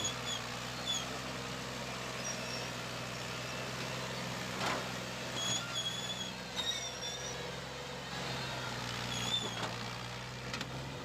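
New Holland 480 tractor's diesel engine running steadily under load as it hauls a loaded sugarcane trolley up a rise, with short high chirps scattered over it.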